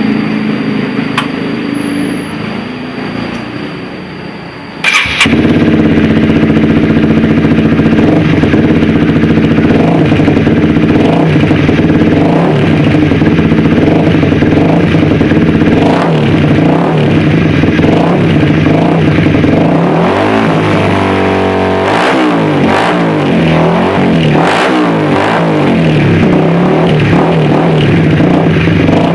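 Honda CBR150R single-cylinder engine running through an aftermarket WRX oval exhaust: it starts up about five seconds in, idles steadily, then is revved in repeated blips through the second half.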